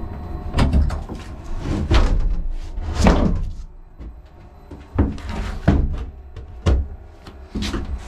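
Irregular knocks and thumps in a small room, about eight over several seconds, like a door or cupboard being handled.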